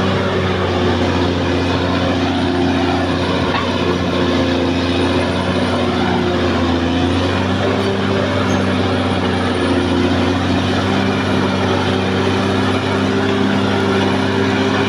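Caterpillar D6R XL bulldozer's diesel engine running steadily, its pitch shifting slightly about seven seconds in.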